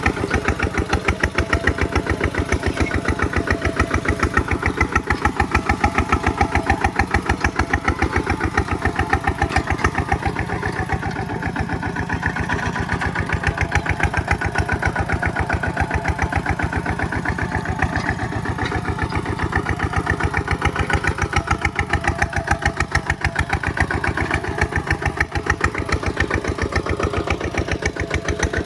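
Kubota single-cylinder diesel engine running steadily with a fast, even beat of firing strokes. The speed sags slightly now and then.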